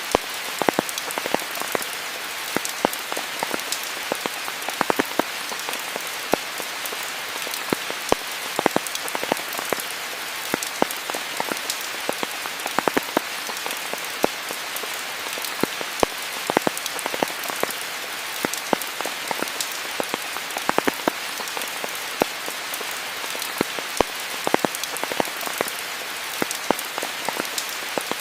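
Steady rain falling, an even hiss with many close, sharp drip and drop impacts scattered irregularly throughout.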